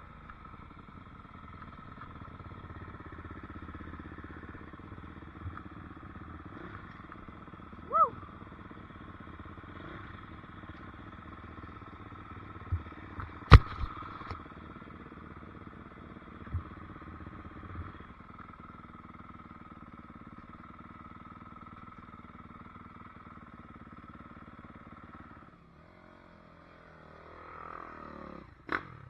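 Dirt bike engine running at a steady pitch, with a few sharp knocks about halfway through. Near the end it drops off, then revs up with a rising pitch.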